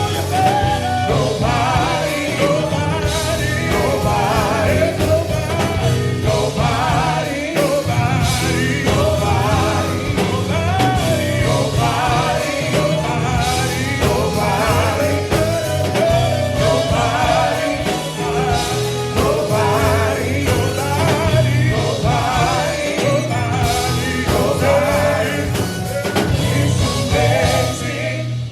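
Gospel quartet singing over a full band with bass, in a loud live performance.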